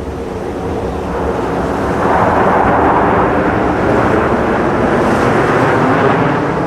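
Jet noise from USAF Thunderbirds F-16 fighters in flight: a steady rumbling rush that swells about two seconds in and stays loud.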